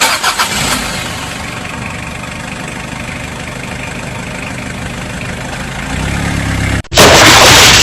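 A motor vehicle engine idling steadily with a low, even rumble. About seven seconds in, it cuts off abruptly and a much louder rushing hiss takes over.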